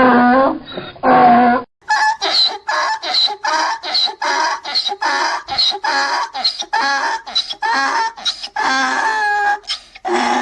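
Donkey braying: two calls at the start, then a long run of rapid, evenly repeated hee-haw cycles.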